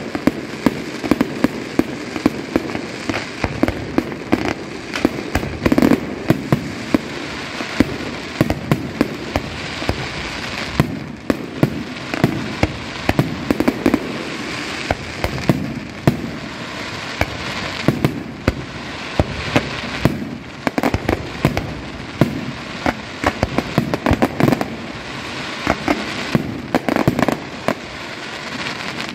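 Aerial fireworks going off in a continuous barrage: many sharp bangs, several a second, over a steady crackle of bursting shells.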